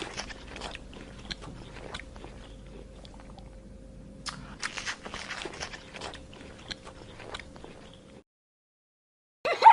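An animal chewing, with irregular crisp crunches over a faint steady hum. It cuts off abruptly about eight seconds in.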